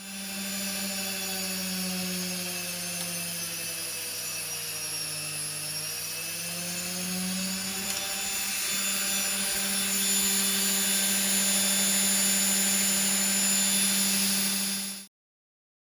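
An electric motor running steadily with a hum. Its pitch sags and recovers in the first half, then holds even and slightly louder until it cuts off abruptly near the end.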